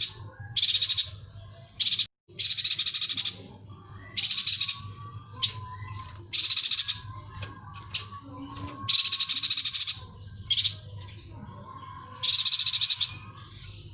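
Yuhina singing repeated high, fast-pulsed trilling phrases, each lasting from a fraction of a second to about a second, with short pauses between them, over a faint low hum. The sound cuts out completely for a moment about two seconds in.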